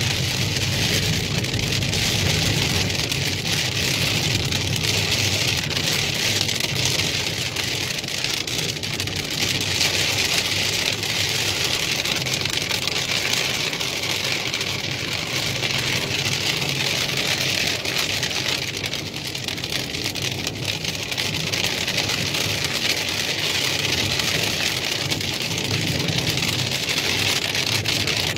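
Heavy rain falling on a moving car, heard from inside the cabin, with a steady hiss of tyres on the wet road and a low road rumble beneath.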